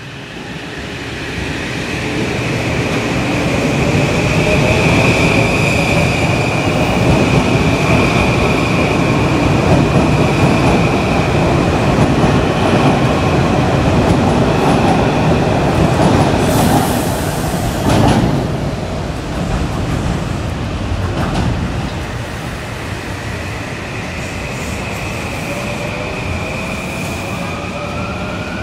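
Metro-North M8 electric multiple-unit train running close by, with a steady rumble of wheels on rail and a high steady whine. The sound swells over the first few seconds and is loudest for about fifteen seconds. A brief hiss comes about seventeen seconds in and a sharp clack a second later, after which the sound runs quieter.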